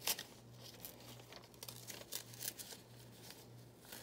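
Small pieces of paper rustling and crinkling in several short bursts as they are handled and torn, over a faint steady low hum.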